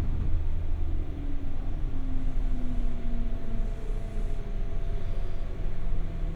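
Inside a 201 series electric train's motor car: a low running rumble, with a whine that falls in pitch over the first few seconds as the train brakes into the station, then a steadier faint tone.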